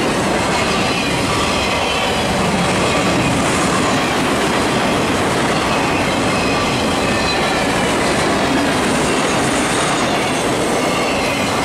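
Freight cars rolling past at close range: a steady rumble of steel wheels on rail with faint high wheel squeals now and then.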